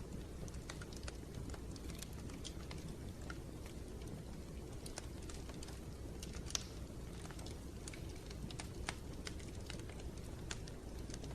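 Wood fire crackling in a fireplace: irregular sharp pops and snaps over a low steady rumble of the flames, with one louder pop about halfway through.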